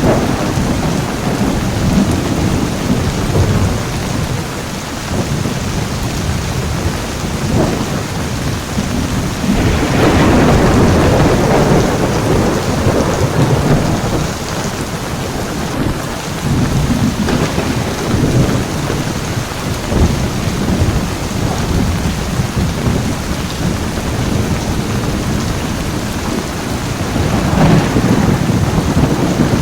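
Heavy, steady rain with rumbling thunder. The rumble swells loudest about a third of the way in and again near the end.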